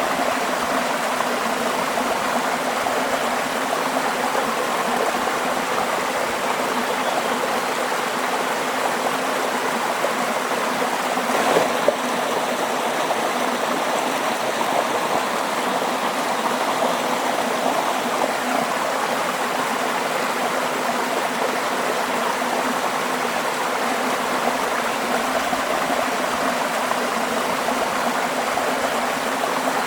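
Waterfall rushing, a steady, even wash of falling water with no change in level. A single brief click rises above it about twelve seconds in.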